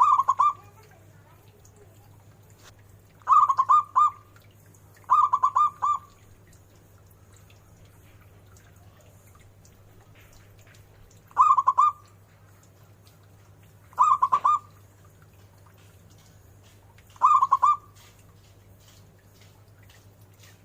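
Zebra dove (perkutut) cooing: six short bursts of quick, repeated staccato coo notes, spaced a few seconds apart.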